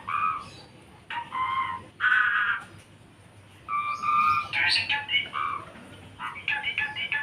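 Javan pied starling (jalak suren) singing in full voice: a string of short, varied whistled and harsh call phrases with brief pauses between them, and a quick run of clipped notes near the end.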